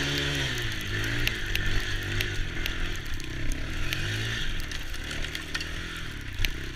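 Small ATV engine running and revving up and down, with a steady hiss over it and scattered sharp clicks.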